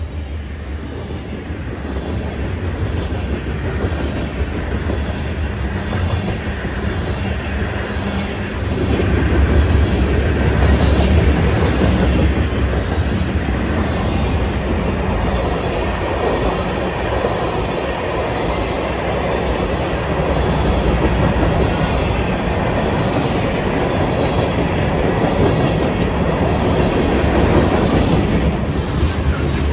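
Freight train passing: a low diesel locomotive rumble that grows louder over the first several seconds, then the steady loud rumble of the train rolling by on the rails.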